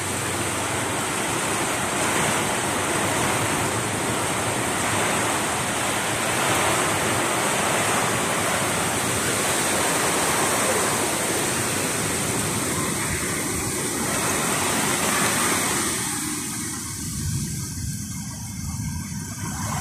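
Heavy thunderstorm rain pouring steadily, a dense even hiss of the downpour. It eases slightly near the end.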